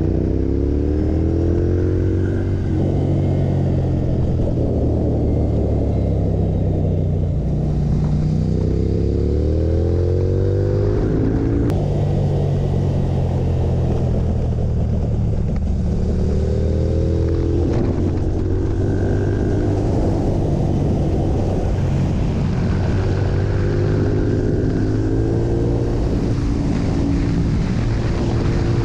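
Ducati motorcycle's L-twin engine running hard, its pitch climbing in several long pulls that each break off and drop, as when accelerating through the gears, over a steady low drone.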